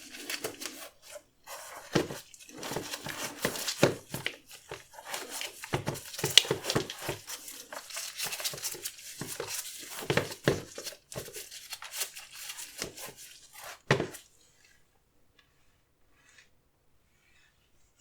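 Close-up handling of a sneaker and its packaging: irregular crinkling, tearing and rubbing of paper with sharp taps and knocks, stopping about fourteen seconds in.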